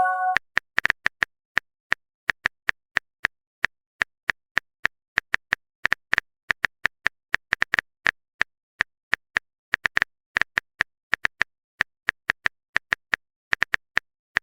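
Phone-keyboard typing clicks from a texting sound effect: short, sharp taps at an irregular pace of a few per second, starting just after a brief message chime dies away.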